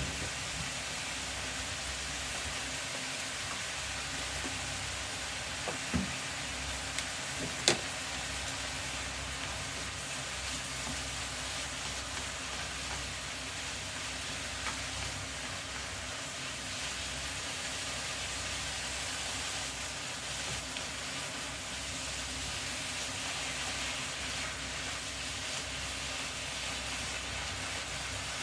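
Maitake mushrooms sizzling as they fry in butter in a pan, a steady hiss, with a few sharp knocks, the loudest a little under eight seconds in.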